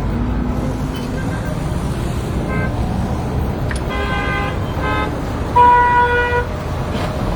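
Road traffic rumbling steadily, with car horns tooting: two short toots about four and five seconds in, then a longer, louder honk lasting nearly a second.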